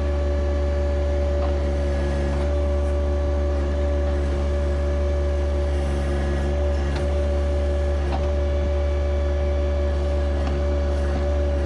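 John Deere 1025R compact tractor's three-cylinder diesel engine running steadily while working the 260B backhoe, with a steady whining tone over the engine and a few faint knocks.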